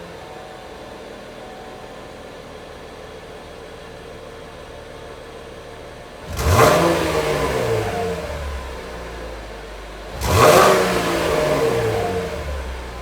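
2019 Chevrolet Camaro with NPP dual-mode valved exhaust idling, then blipped twice, about four seconds apart; each rev jumps up sharply and falls back to idle over about two seconds.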